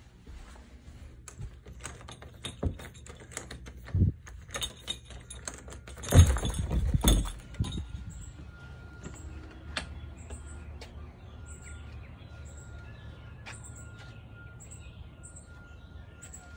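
Handling noise and knocks from someone walking through a house, with a loud clatter about six seconds in; then, outdoors, a small bird chirping repeatedly in short high chirps, one or two a second.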